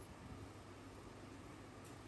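Near silence: faint steady background hiss, with one faint click near the end.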